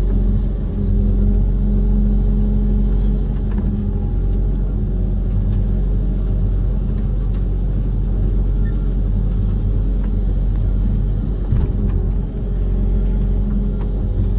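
Diesel engine of a Kobelco SK130 amphibious excavator running steadily at working speed, with a few faint knocks and clicks over it.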